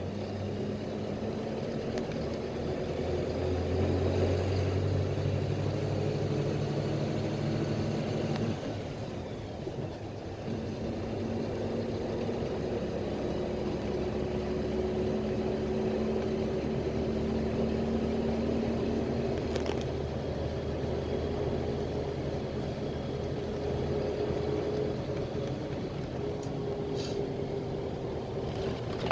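PAZ Vector Next bus heard from inside while driving: a steady engine note with rumble. About a third of the way in the note drops away briefly, as at a gear change, then a steady tone climbs slowly as the bus gathers speed.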